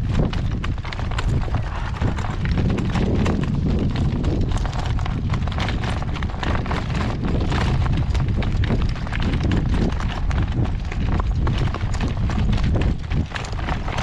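A driving horse's hooves clip-clopping steadily as it moves along, over a loud rumble of strong wind buffeting the microphone.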